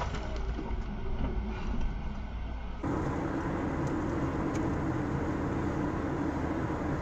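Steady car engine and road noise as picked up by a dash camera. It changes abruptly to a different recording of the same kind about three seconds in.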